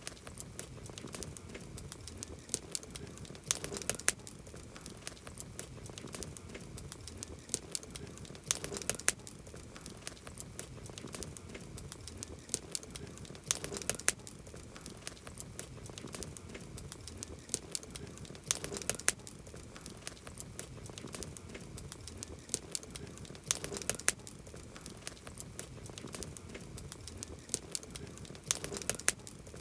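Wood campfire crackling, with a steady run of sharp pops and snaps and louder clusters of pops about every five seconds.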